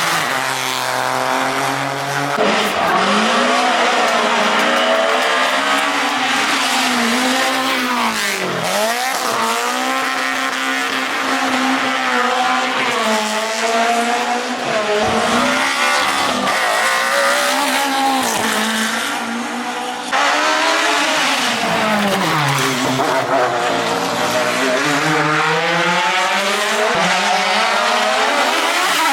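Hill-climb race car engines revving hard, the pitch climbing and falling again and again through gear changes and braking. The sound changes abruptly a few times as one car gives way to the next.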